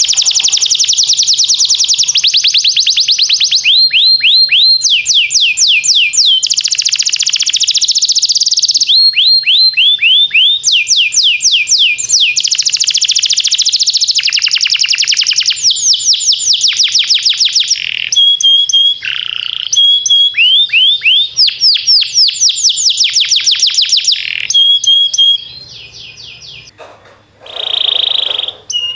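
Domestic canary singing a continuous song of rapid trills and rolls, fast repeated notes, many sweeping downward, changing phrase every second or two. The song dips quieter for a moment near the end.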